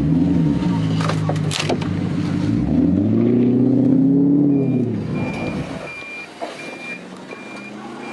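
A car engine running, revved once about three seconds in so that its pitch rises and falls back. Then the engine sound drops away and a short high electronic beep repeats about one and a half times a second, like a reversing alarm.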